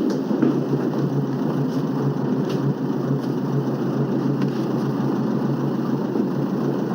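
A motor vehicle's engine running steadily amid street traffic.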